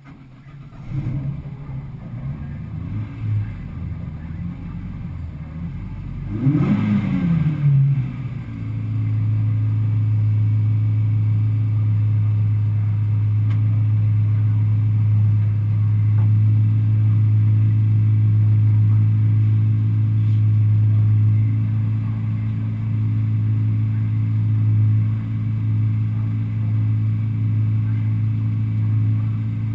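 Peugeot 106 rally-slalom car's four-cylinder engine heard from on board: it comes in about a second in, is revved up and down once, then held at a constant, steady engine speed for the rest of the time.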